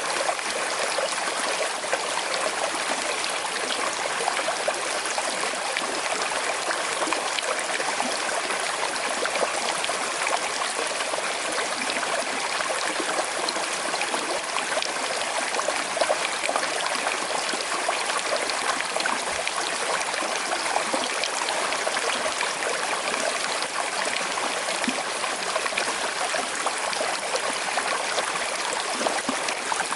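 Small river with a slight current flowing and trickling steadily over stones, an even rushing water sound.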